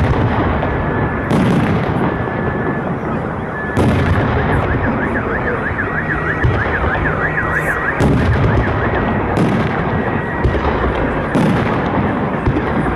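Festive fireworks salute: a series of heavy booms as shells burst overhead, each followed by a rumbling tail. Through the middle a car alarm wails with a fast rising-and-falling warble.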